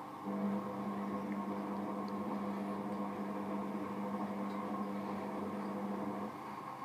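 Hotpoint WM74 washing machine on its spin cycle, its drum running with a steady rumble on bad bearings. A steady hum comes in just after the start and cuts off about six seconds later.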